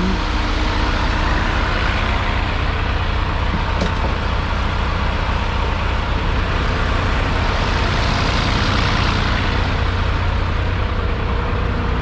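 A heavy vehicle's engine running steadily as it drives, with a constant rush of road and tyre noise.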